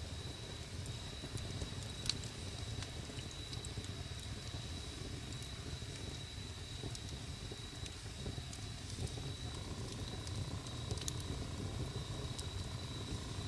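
Wood campfire burning with a low steady rumble and scattered crackling pops, the sharpest about two seconds in.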